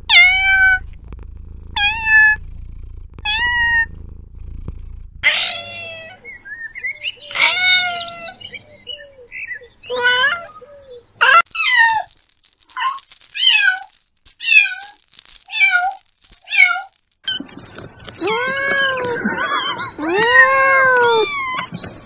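Kittens meowing: a string of short meows that fall in pitch, spaced out at first and then coming thick and fast, with several calls overlapping near the end as more than one kitten meows at once.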